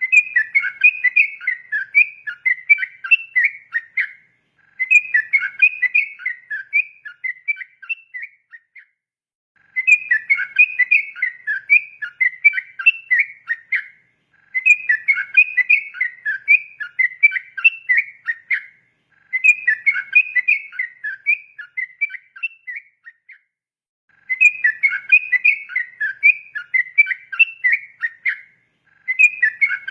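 Yellow-vented bulbul (trucukan) singing its bubbling, chattering song in bouts of about four seconds, each broken off by a short pause, about six bouts in all. It is the long, rapid 'ropel' style of song used as a training call for young birds.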